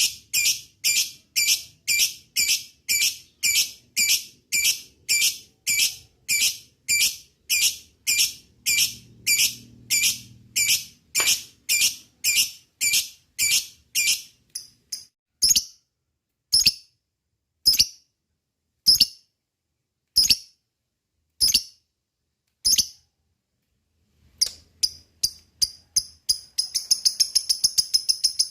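Lovebird calling in a steady series of sharp, high chirps, about two to three a second, that thins out to single chirps about a second apart around the middle. After a short pause it picks up again and breaks into a fast, unbroken chatter near the end, the long 'ngekek' call.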